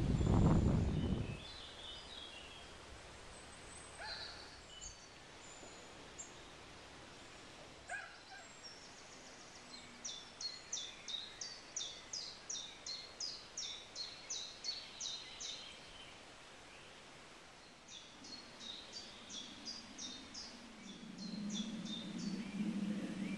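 Woodland birdsong: a small bird repeating a short high note about two or three times a second, in two runs. A low rumble fades out in the first second and a half, and a low hum comes in near the end.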